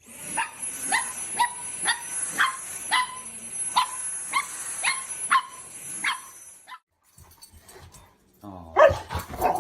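A dog barking over and over at a steady pace, about two barks a second, for several seconds, then stopping.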